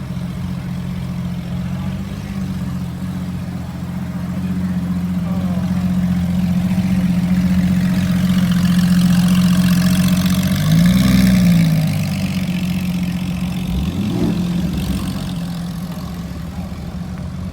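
A performance car's engine and exhaust idling with a steady low drone. About two-thirds of the way through there is a short throttle blip that rises and falls in pitch, then a smaller one shortly after.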